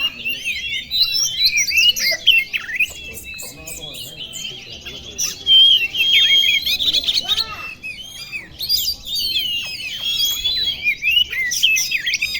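Oriental magpie-robin (kacer) singing a fast, nearly unbroken song of varied whistles and chattering notes.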